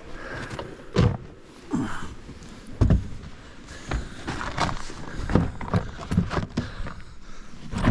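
Footsteps crunching and thudding in fresh snow, uneven steps about one every half second to a second.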